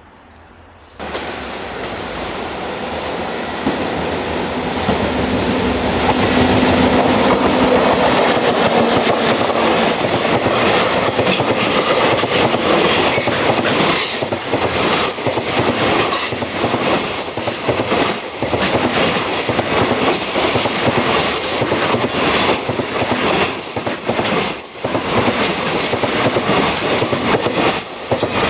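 Freight train hauled by an EF65 electric locomotive passing at speed: a loud rush of steel wheels with a rapid clickety-clack over rail joints as the wagons go by. The sound comes in abruptly about a second in and builds over the next few seconds before settling into a steady roll.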